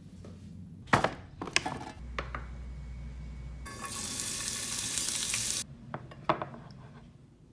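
Kitchen work: a few sharp knocks and clinks of utensils or dishes, then about two seconds of loud hissing, like sizzling or running water, that starts and stops abruptly. A couple more knocks follow near the end.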